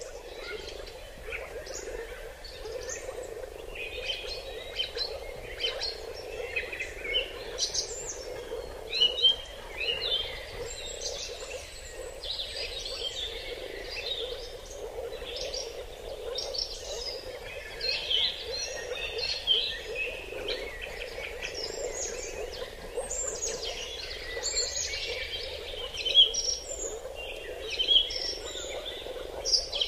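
Many forest birds chirping and calling in short, overlapping notes, over a steady low hum.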